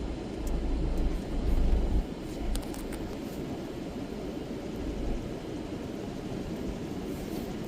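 Low, steady rumble of a car running at low speed, heard from inside the cabin, heaviest in the first two seconds, with a few faint clicks.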